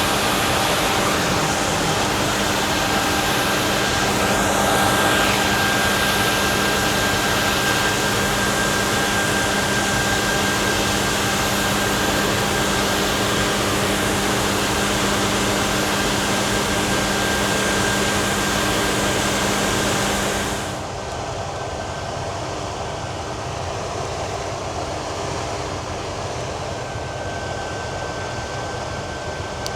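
Farm machinery running steadily under a rushing noise, with a constant hum. About two-thirds of the way through it cuts abruptly to a quieter, duller sound of the same steady running.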